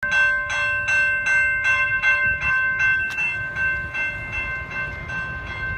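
Railroad grade-crossing bell ringing in a steady rhythm of a little under three strikes a second, each strike leaving a ringing tone, over a low rumble. The strikes grow softer toward the end.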